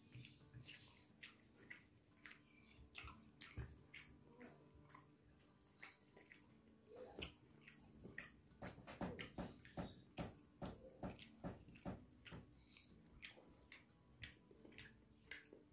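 Close-up, soft chewing of rice and beef rendang, a wet clicking of the mouth. A brisk run of chews at about three a second comes from about eight seconds in, with a few quieter sounds of fingers in the rice around it.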